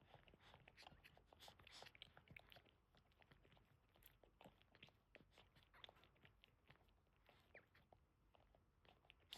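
Faint, irregular wet smacking and clicking of a Boston terrier mother licking her newborn puppy.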